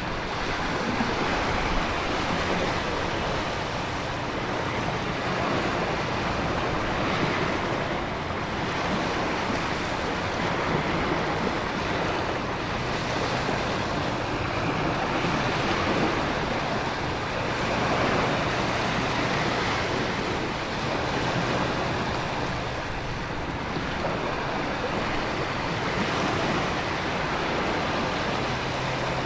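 Storm ambience of ocean waves, wind and heavy rain: a continuous rushing noise that swells and eases every few seconds as the surf surges.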